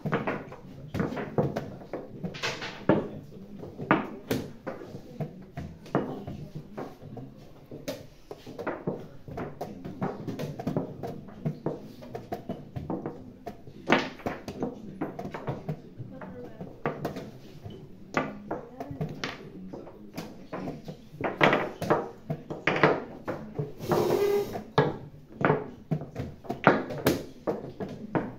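Irregular sharp clicks and knocks, one or two a second, of chess pieces being set down and chess clocks being pressed during blitz games, over a low murmur of voices in the room.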